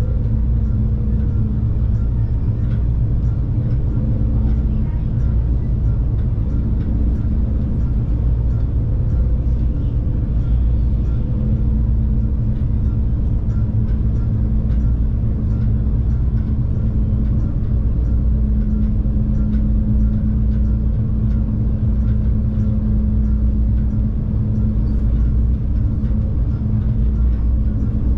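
Stadler GTW diesel multiple unit running along the line: a steady low rumble of engine and wheels on rail, with a steady hum over it.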